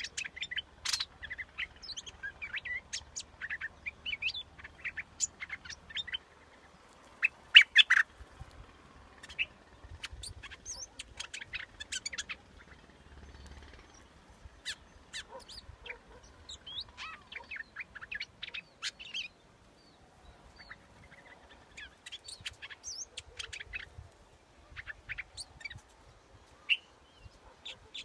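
Bulbul (the Thai 'nok dok taeng', a yellow bulbul) calling in a long run of short chirps and quick whistled notes, the kind of recording played as a lure for wild bulbuls. A louder pair of calls comes about eight seconds in, and there is a short lull a little past the middle.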